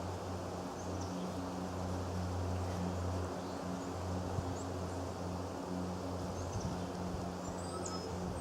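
Outdoor ambience: a steady low hum throughout, with a few faint, brief bird chirps, most of them in the second half.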